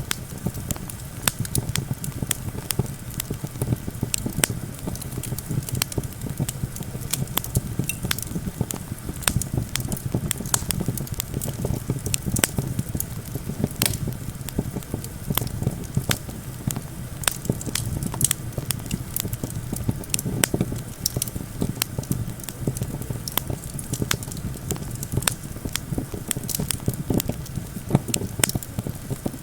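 Wood campfire crackling, with many sharp pops and snaps, over a steady low rumble of wind.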